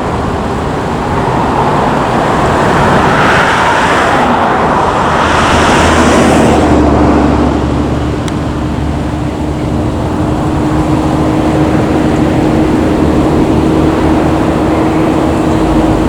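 Airbus A321 jet engines, a loud steady rush that swells a few seconds in, then settles into a steady hum with a held tone from about six seconds in.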